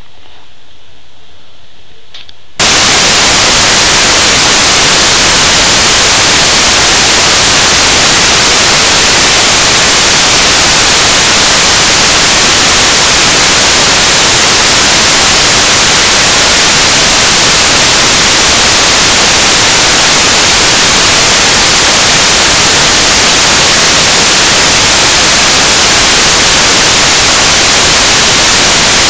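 A few light ticks over a quiet room, then, a little over two seconds in, an abrupt switch to loud, perfectly steady static hiss like white noise that holds without change.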